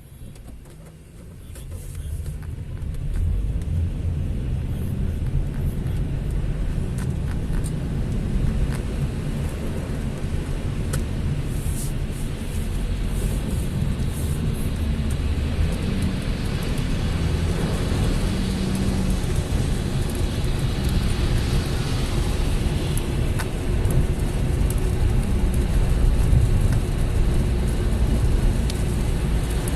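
Low rumble and road noise of a car driving, swelling about two seconds in and then running steadily.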